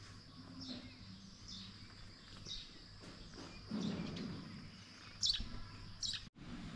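A bird chirping repeatedly, short falling notes about once a second with the loudest pair near the end, over a steady high insect drone.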